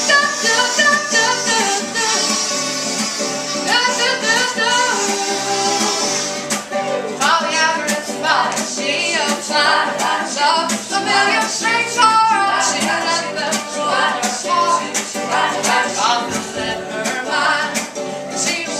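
Live acoustic folk song: plucked banjo and bowed cello with women's voices singing in harmony.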